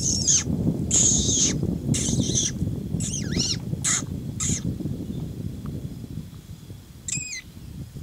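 A bird's harsh, high-pitched calls, repeated about once a second for the first half, then one more call near the end, over a steady low rumble.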